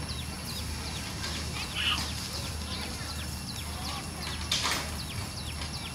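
A bird calling over and over in short, high, falling notes, about three a second, over a steady low hum. A brief louder call comes near two seconds in, and a short noisy burst about four and a half seconds in.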